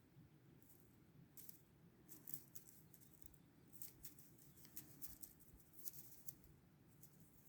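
Faint, scattered soft clicks and rustles, a few every second, over a low steady background hum.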